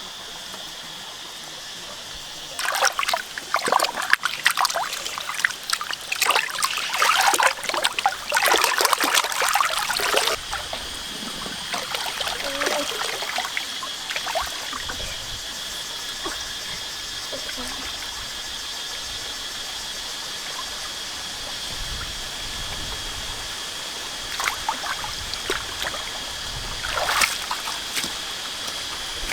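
Water splashing and trickling, busiest for several seconds early on and again briefly near the end.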